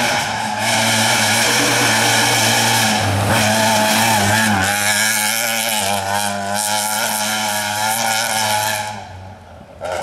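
Volkswagen Polo rally car's engine running hard at high revs on a rally stage, with a drop in pitch about four and a half seconds in, then fading away near the end.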